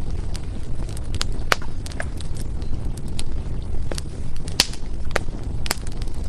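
Firewood burning in a fireplace, crackling with irregular sharp pops over a steady low rumble, a few pops louder than the rest.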